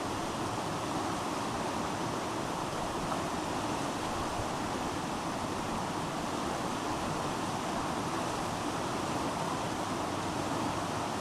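Steady rush of fast-flowing river water, an even hiss-like roar with no breaks.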